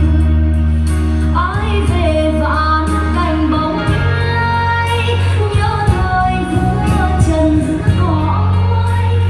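A woman singing a song over band accompaniment with a steady bass line.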